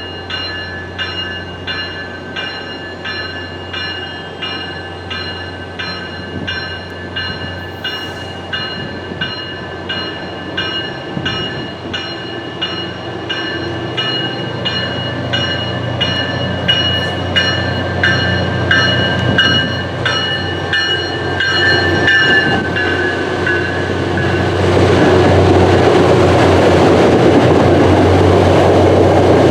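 MBTA commuter rail train departing the station: its bell rings steadily, about two strikes a second, until it stops about 22 seconds in. The train's running noise then grows loud as it moves off past the microphone.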